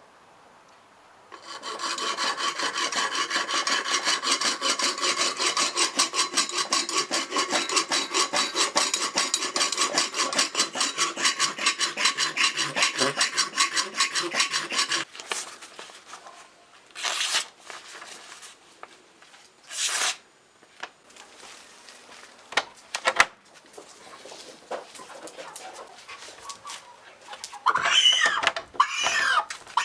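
Fast, rhythmic back-and-forth abrasive strokes worked by hand on a scrap-metal knife, starting about a second and a half in and stopping abruptly about halfway. A few separate strokes follow, and near the end a bird calls with short chirps.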